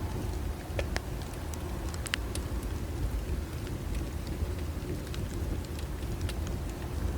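Bonfire burning, with scattered sharp crackles and pops of the wood over a steady low rumble of the flames.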